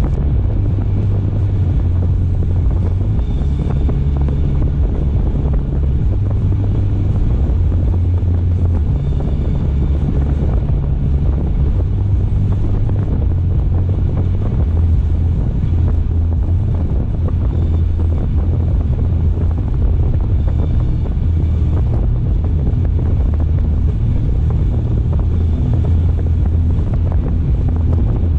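A car driving along the road: a steady low rumble of engine and tyres, with wind noise on the microphone.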